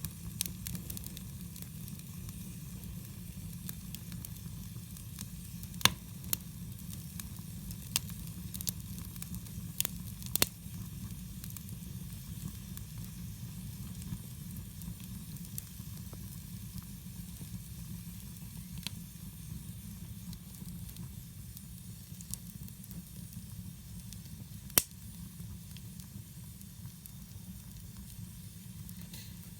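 A campfire burning with a steady hiss and sporadic sharp crackling pops, the loudest about six seconds in and again near the end, over a steady low rumble.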